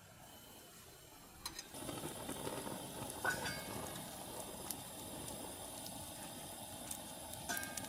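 A camp gas burner lit with a click about a second and a half in, then hissing steadily, with a few light clinks of cookware.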